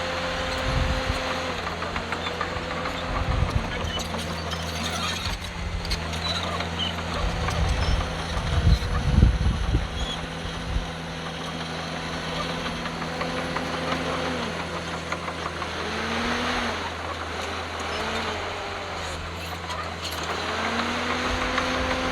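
Heavy diesel engine of earthmoving machinery working under load. The pitch dips and climbs back several times as the revs change, with a burst of heavy low rumbling about nine seconds in.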